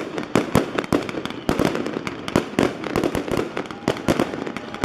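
Fireworks display going off: a rapid, irregular string of sharp bangs and crackling pops, several a second.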